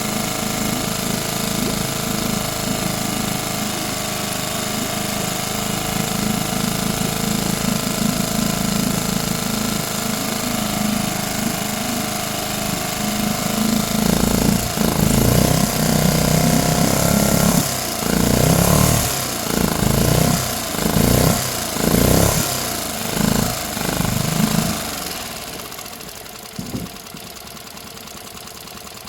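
Tohatsu MFS6DS 6 hp single-cylinder four-stroke outboard motor running steadily. About halfway through it is revved in a string of short throttle blips, roughly one a second. The sound then drops away sharply near the end.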